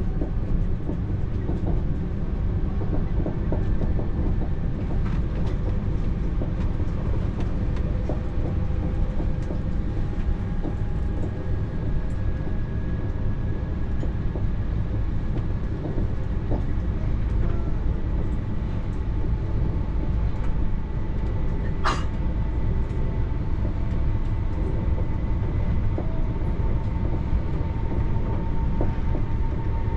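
TER regional train running steadily, heard from inside the carriage: a continuous low rumble with faint whistling tones and scattered small clicks from the running gear. A single sharp click or knock stands out about 22 seconds in.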